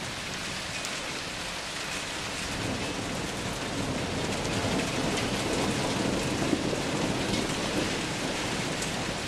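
Heavy rain pouring steadily, with a long roll of thunder that builds from about two and a half seconds in, rumbles on through the middle and eases near the end.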